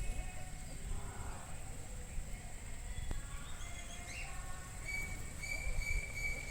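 Faint, high-pitched bird calls: several short ones, then one longer steady call near the end, over a constant low rumble.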